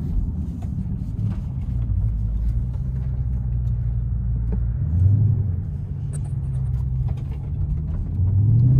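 2020 Dodge Scat Pack's 6.4-litre HEMI V8 running under way, heard from inside the cabin as a low, steady drone mixed with road noise. The engine note swells briefly about five seconds in and rises again near the end.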